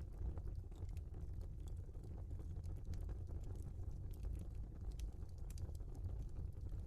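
Wood fire in a fireplace burning logs, crackling with irregular small pops and snaps over a low steady rumble.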